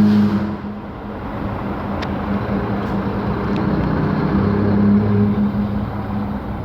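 Road vehicle engine running with a steady hum, easing off about a second in and building again toward five seconds.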